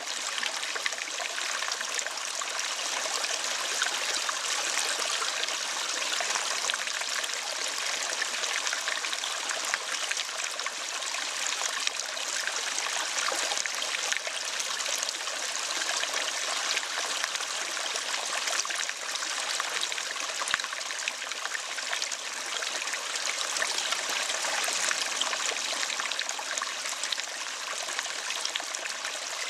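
Running water from a stream, trickling steadily without a break.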